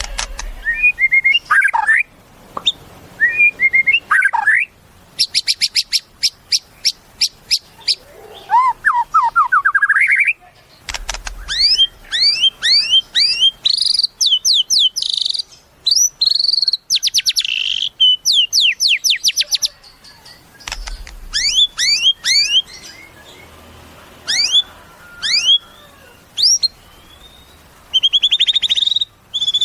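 A white-rumped shama (murai batu) in full, loud song. It sings varied phrases of fast trills, rising whistled sweeps and quick runs of notes, with short pauses between them.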